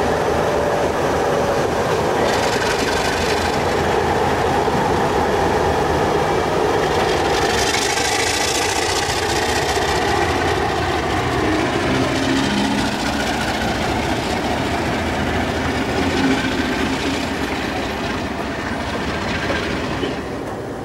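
Passenger train coaches rolling past at close range: steady wheel-on-rail rumble with clicking over rail joints, easing off slightly near the end.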